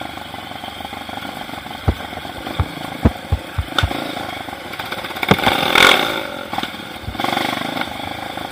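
Trail motorcycle engine running steadily, with a run of sharp knocks a couple of seconds in and a brief louder surge near the middle.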